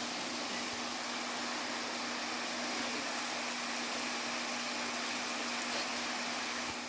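Steady rush of water falling at a waterfall, with a faint low hum under it; it starts to fade out at the very end.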